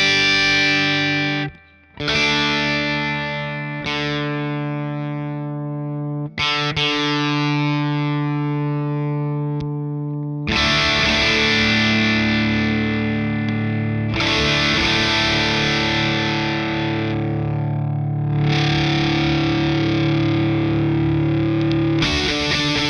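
Electric guitar played through a Ross Distortion pedal into a Fender '65 Deluxe Reverb reissue amp. A few held distorted chords ring out and fade, then denser, sustained distorted playing begins about ten seconds in.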